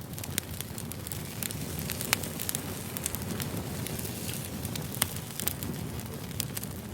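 Wood fire burning, logs crackling and popping over a steady low rumble of flame, with two louder pops about two and five seconds in.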